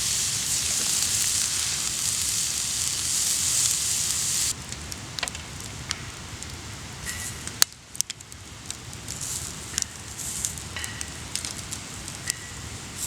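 Steak sizzling steadily on an iron griddle plate over a wood fire, a dense hiss that cuts off abruptly about four and a half seconds in. Then a quieter campfire with sharp, scattered pops and crackles.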